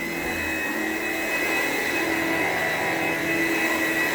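Upright vacuum cleaner running steadily over carpet: an even motor hum with a steady high whine above it.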